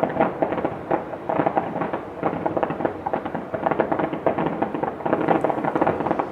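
Fireworks finale: a dense, continuous barrage of rapid bangs and crackles with no break.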